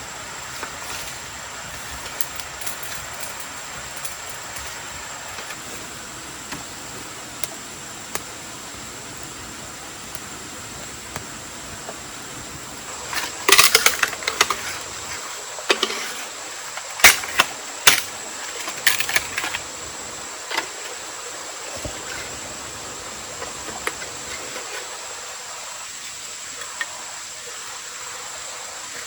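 Steady rush of water with a thin, high, steady tone above it. About halfway through comes a cluster of sharp clicks and knocks, the loudest sounds here.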